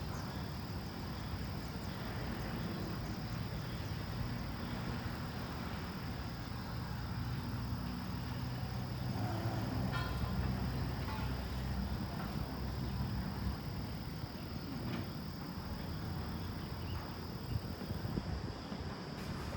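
Steady low vehicle rumble with a constant high-pitched insect drone over it.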